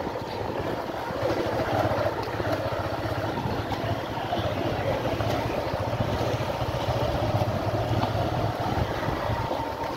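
A motor vehicle's engine running steadily, with its pitch wavering a little, under wind noise on the microphone.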